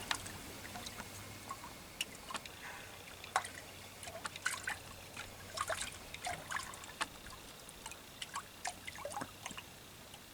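Faint water trickling and dripping against a boat, with scattered small irregular ticks and splashes.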